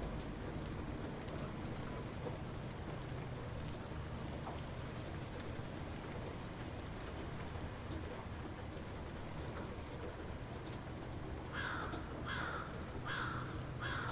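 Light rain falling steadily, with single drops ticking now and then. Near the end a bird calls four times in quick succession.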